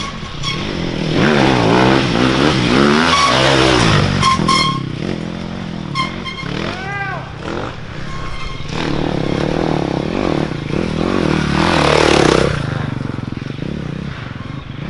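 Dirt bike engines revving hard and shifting as the bikes race past, the pitch climbing and dropping quickly several times, with another bike building up to a loud pass about twelve seconds in.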